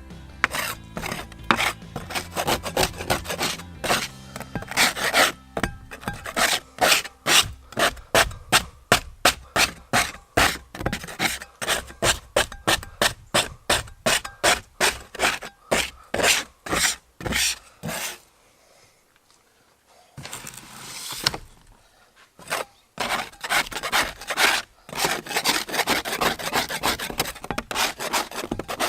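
Metal scraper scraping dry-rotted carpet and adhesive off a boat deck in quick, repeated strokes, about two a second, with a short pause about two-thirds of the way through.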